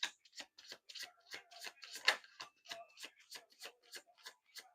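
Oracle cards being shuffled by hand: a run of irregular light clicks and flicks, several a second.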